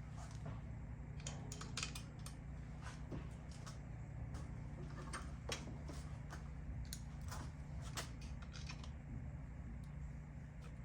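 Scattered light metallic clicks and ticks from small tools and engine parts being handled, over a steady low hum.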